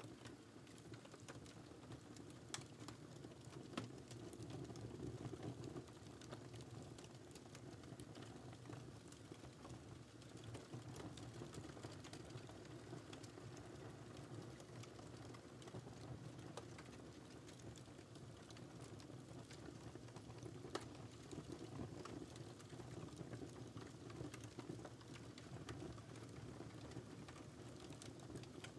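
Wood fire burning in a fireplace: a steady low rumble of flames with scattered sharp crackles and pops, a few louder pops standing out.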